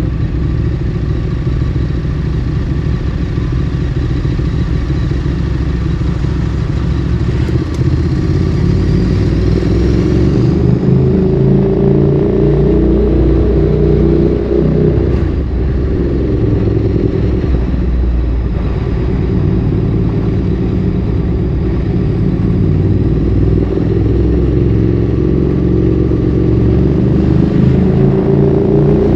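Ducati Streetfighter 848's 849 cc L-twin engine through a Termignoni exhaust, loud and close: it runs steadily at low revs, rises in pitch as the bike accelerates a little before halfway, breaks briefly, then holds steady before climbing again near the end.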